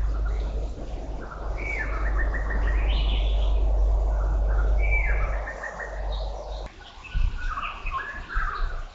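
Birds chirping and singing in short, repeated calls. A steady low rumble lies underneath and stops abruptly about two-thirds of the way through.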